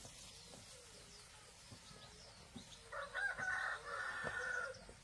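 A rooster crowing once, a single drawn-out call starting about three seconds in and lasting under two seconds.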